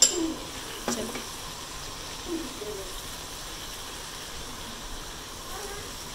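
Chicken pieces frying in hot oil in a nonstick pan, sizzling steadily while a spatula stirs them, with a sharp knock of the spatula at the start and another about a second in.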